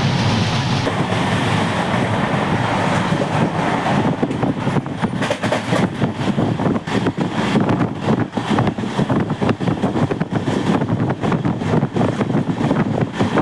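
Heavy monsoon rain pouring, a dense, steady rush of noise with fine patter throughout.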